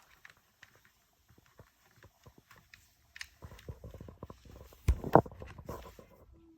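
Faint scattered clicks, knocks and rustles of things being handled, growing busier about three seconds in, with a couple of louder thumps about five seconds in.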